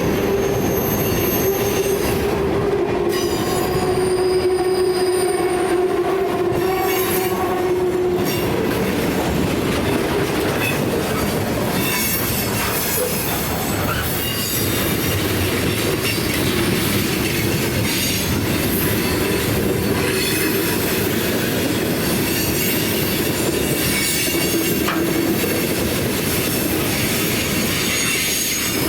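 Freight cars of a CSX manifest train rolling through a sharp curve, their wheels squealing and scraping against the rails over steady rolling noise. The curve is tight enough that the inner parts of the wheels scrape along the rails. Several squealing tones come and go, strongest in the first eight seconds or so.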